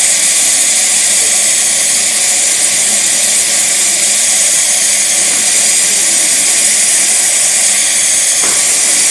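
Steady, loud hiss of a gas jet on a roller-groove hardening rig, with no change in pitch or level.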